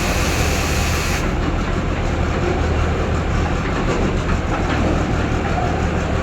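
Diesel engine of heavy earthmoving or farm machinery running steadily, with a low, even hum under a broad mechanical noise.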